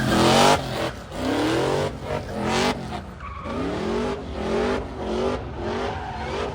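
Car engine revved hard again and again, its pitch climbing in about six short rising sweeps over a steady low rumble.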